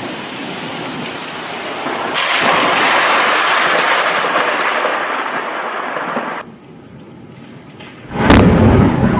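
Thunderstorm: steady heavy rain hiss that grows louder about two seconds in and then breaks off abruptly. After a quieter stretch comes a sudden loud crack of thunder from a close lightning strike near the end.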